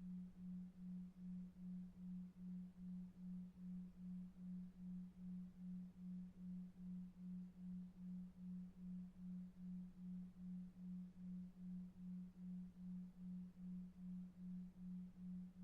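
Low hum-like tone pulsing evenly about two and a half times a second, a 2.5 Hz delta-wave tone for sleep, over faint brown noise.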